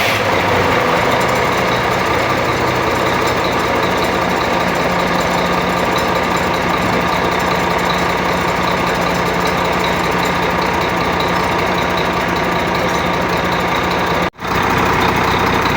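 Newly overhauled Weichai diesel engine running steadily just after its first start-up. The sound breaks off for an instant near the end.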